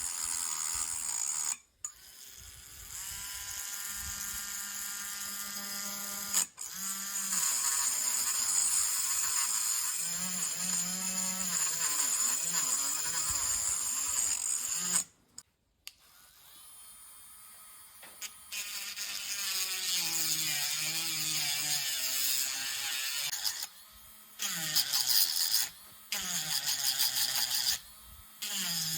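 Small high-speed electric motor whirring in several runs, its pitch wavering, with short stops between.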